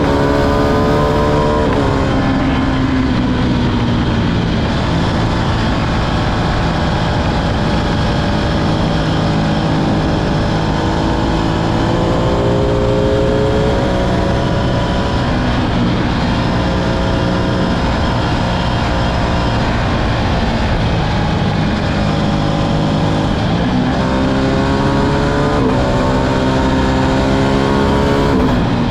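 Ducati Streetfighter V2's 955 cc L-twin engine running hard under way, its pitch climbing slowly and falling. The pitch drops suddenly at upshifts about two seconds in and three times in the last six seconds.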